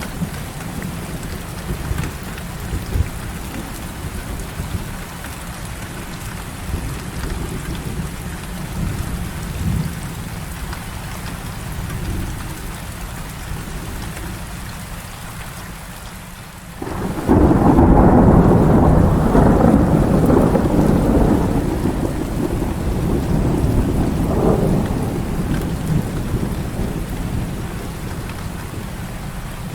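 Heavy rain falling steadily with a low rumble of thunder under it. About seventeen seconds in, a loud thunderclap breaks in suddenly and rolls away over several seconds.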